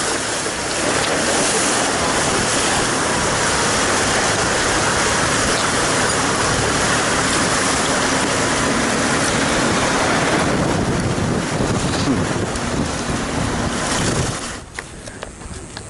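Rushing river water: a loud, steady rush with no tone in it, which drops away suddenly about a second and a half before the end.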